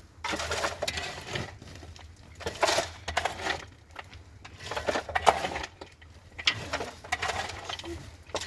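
Irregular scraping and clinking strokes, roughly one a second, each sharp at the start.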